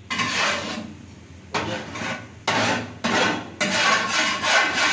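Dishes being scrubbed by hand: about four loud rasping scrubbing strokes, each starting sharply and lasting around a second.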